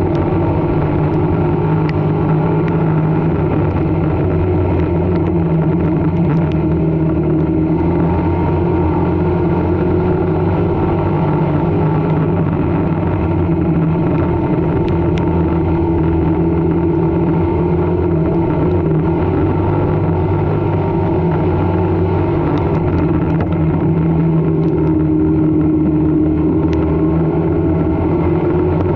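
Street stock race car engine running steadily on track, its pitch holding nearly level with only small rises and dips.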